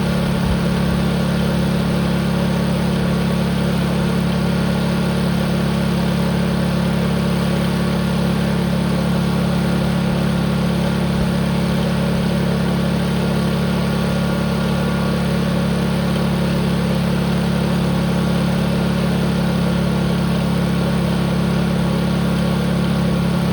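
Tractor engine held at full throttle, wide open, running steadily at an unchanging pitch.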